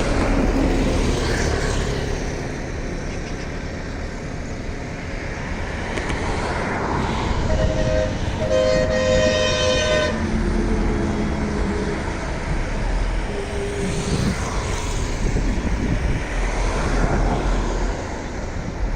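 Steady roar of a passenger jet during its takeoff run, with a brief horn-like tone about eight seconds in.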